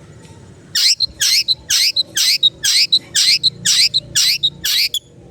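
Long-tailed shrike (cendet) in full song: a fast run of about ten loud, harsh calls, each sweeping downward, with a short high note between them. The run starts about a second in and stops just before the end.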